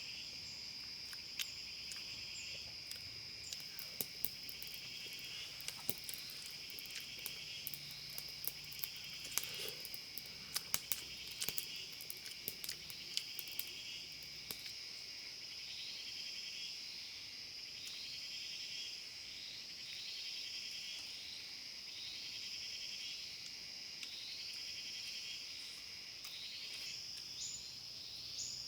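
Chorus of forest insects: a steady high drone with a pulsing trill that repeats about once a second. Scattered sharp clicks come through the first half, and short rising chirps repeat about once a second in the second half.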